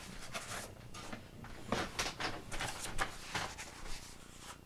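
Faint rustling and a few soft taps and clicks of a picture book being handled, its page being turned.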